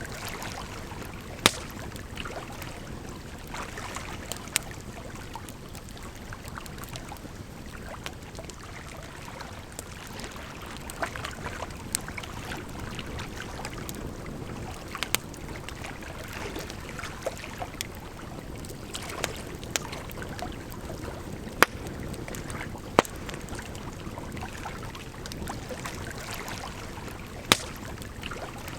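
Campfire crackling, with sharp pops now and then, over a steady rush of water.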